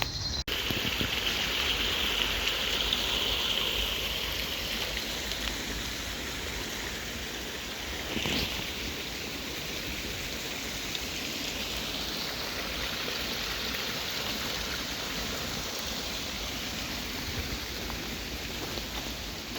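Steady rain falling, heard as a continuous even hiss, with a short louder swell about eight seconds in.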